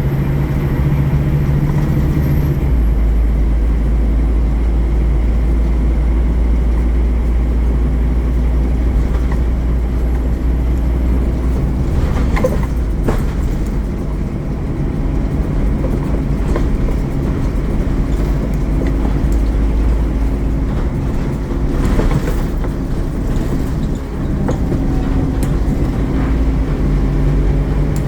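Scania N230UD OmniCity double-decker bus engine running under way, a steady low drone whose note shifts down about three seconds in. Occasional knocks and rattles come from the bus body, about halfway through and again near 22 seconds.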